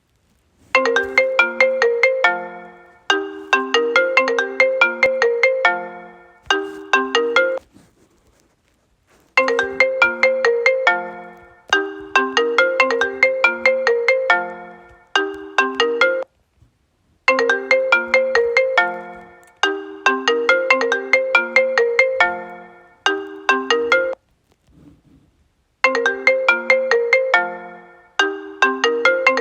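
iPhone 11 ringtone playing: a melody of short, quickly fading notes, the phrase repeating about every eight seconds with a brief pause between repeats, three times over and starting a fourth near the end.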